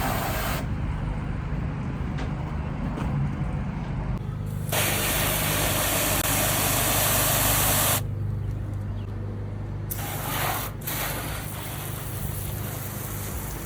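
Garden hose trigger spray nozzle spraying water onto a car in two bursts: one starting about five seconds in and lasting about three seconds, and another starting near ten seconds and running on. A low steady hum sits underneath.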